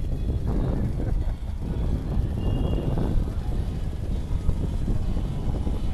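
Steady low rumble of street and traffic noise with wind on the microphone, heard from a moving bicycle.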